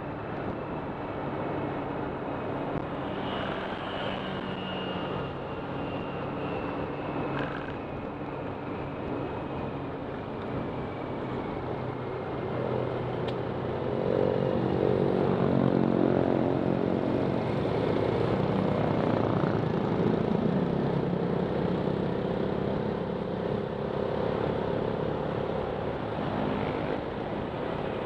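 Honda Click 125 scooter's single-cylinder engine running under way, with a steady rush of wind and road noise. The engine gets louder about halfway through.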